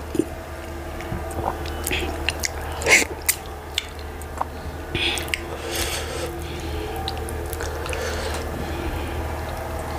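Close-miked eating sounds: chewing and lip smacks, with wet squelches as fingers tear chicken in thick soup. Irregular clicks come and go, the loudest about three seconds in, over a steady low hum.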